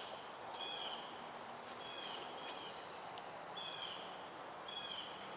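A bird calling repeatedly outdoors, a short high note about once a second. Under it runs a faint low hum from the honeybees of the package.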